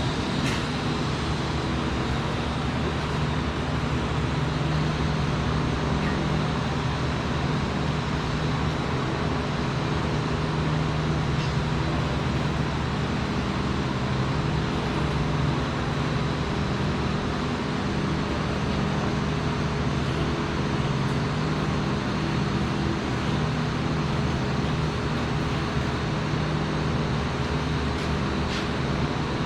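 Steady machinery drone with a low hum, holding an even level throughout.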